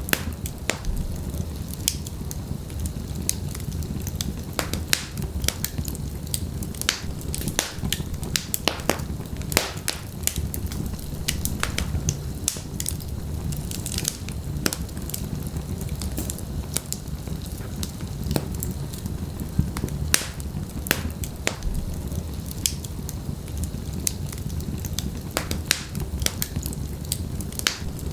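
Wood fire of burning logs crackling: a steady low rumble of the flames with frequent sharp, irregular pops and snaps from the wood.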